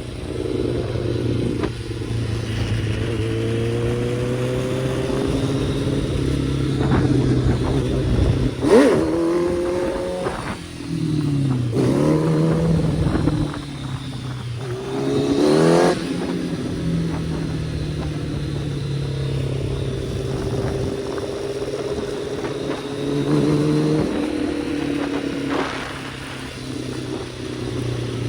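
Kawasaki ZX-10R inline-four sport bike engine running under way, with wind noise. The revs rise several times as it accelerates, with a sharp blip about a third of the way in and a quick climb in revs a little past halfway.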